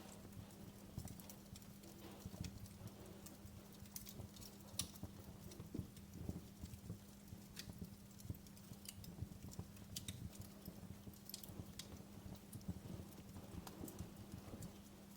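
Wood fire crackling in a fireplace: many small, irregular snaps and pops over the low rumble of the flames, with a steady low hum underneath.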